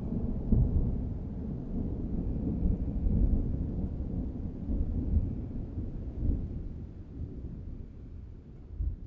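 Rolling thunder: a deep rumble that slowly dies away.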